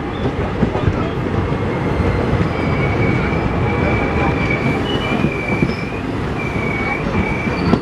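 Passenger train running at speed: a dense rumble and rattle of wheels on track. A high squeal comes and goes in several stretches from about a third of the way in.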